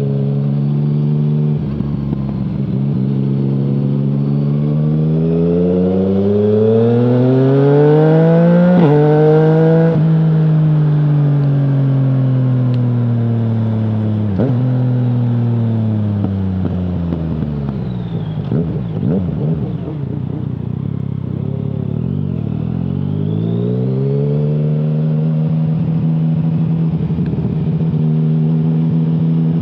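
Yamaha MT-09's 847 cc inline three-cylinder engine through an Akrapovic full-system exhaust with no dB killer, heard from the rider's position. The engine accelerates with its pitch climbing for several seconds, then drops sharply at an upshift. The revs fall away for a long stretch on engine braking, run low and uneven, then climb again to settle at a steady cruise.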